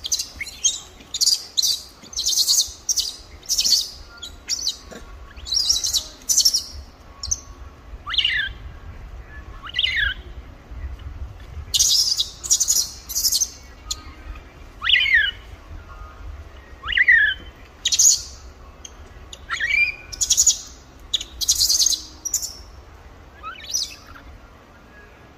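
Birds chirping: short, high, buzzy bursts repeated every second or so, with a few brief downward-sliding whistle calls in between.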